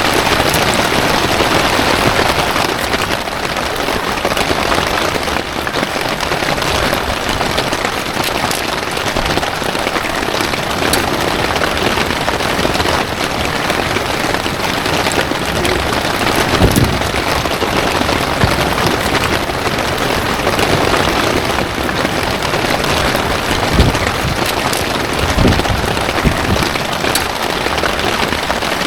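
Heavy rain falling steadily, with a few dull low thumps after the middle and near the end.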